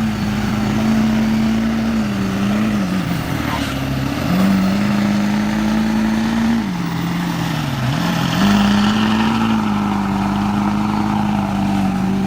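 Duramax diesel pickup's engine running hard at high revs while towing. Its pitch sags three times as the engine is loaded and then climbs back.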